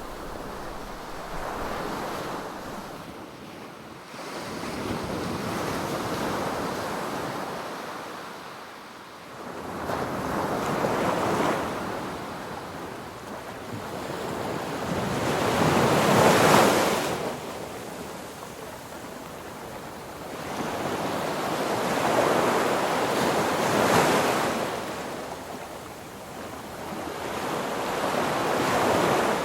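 Wind rushing over the microphone in gusts that swell and fade every few seconds, with no steady tone beneath.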